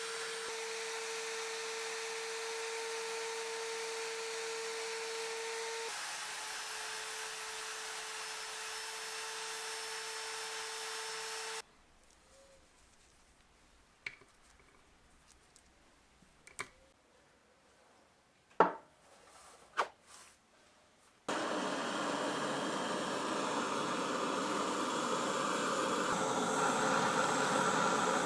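A power tool runs steadily with a constant hum, then stops about twelve seconds in. A few sharp knocks follow in near quiet, then a power tool starts running again about twenty-one seconds in, a little louder toward the end.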